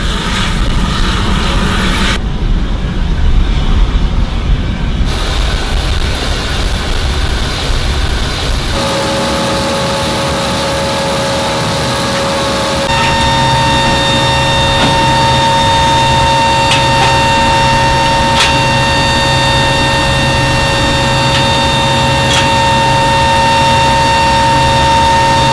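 Jet engines running on an airfield: a heavy rumble for the first several seconds, then from about nine seconds a steady turbine whine with several high constant tones. The sound changes abruptly a few times where shots are cut together.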